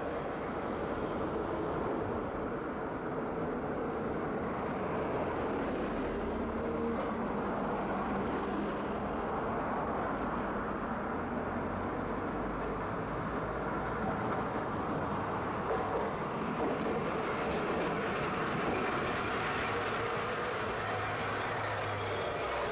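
Tosaden (Tosa Electric Railway) streetcar running steadily along its track: a continuous rumble of wheels on rail with a faint motor hum, heard from inside the car at the front.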